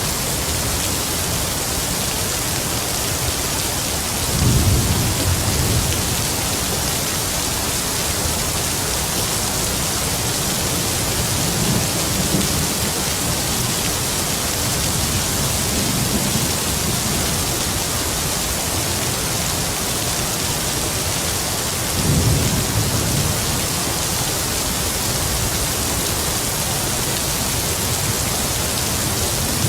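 Heavy rain falling steadily, with distant thunder rumbling low under it. The two clearest rolls come about four seconds in and about twenty-two seconds in, with fainter rumbles between.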